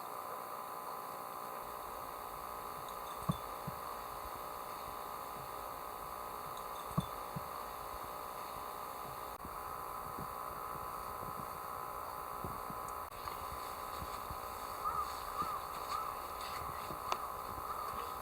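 A steady hum with a few sharp clicks.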